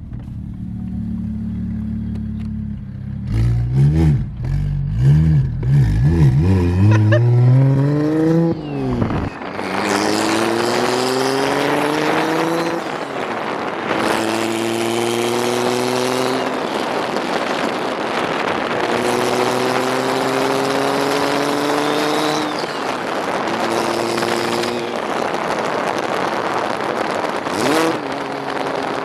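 BMW N54 3.0-litre straight-six with a single turbo, idling briefly, then blipped up and down several times. It then accelerates in repeated rising pulls, each cut by a drop in pitch at a gear change, with wind rushing over the microphone.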